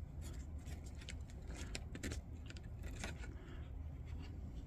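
Faint light clicks and taps of small objects being handled on a work surface, over a steady low hum.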